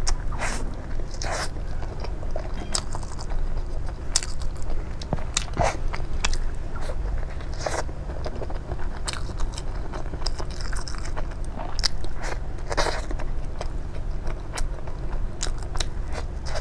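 Close-miked eating: bites and chewing with irregular crunchy clicks and crackles.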